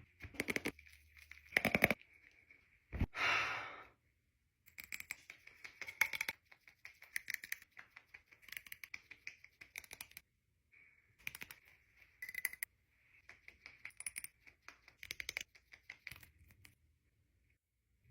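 Irregular clicks, taps and light scrapes of small objects being handled, with a sharper knock about three seconds in and a faint steady high tone underneath.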